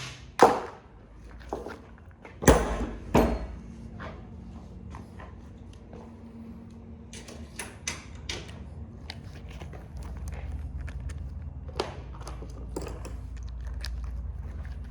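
Metal parts of a printer being knocked loose while it is dismantled: three loud knocks in the first few seconds, then scattered small clanks and rattles.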